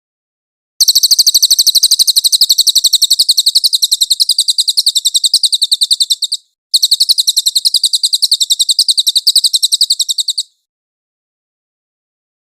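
Cililin bird song: a fast, high-pitched trill of rapidly repeated notes, about ten a second, in a long burst from about a second in, a brief break, then a second burst that stops about two seconds before the end.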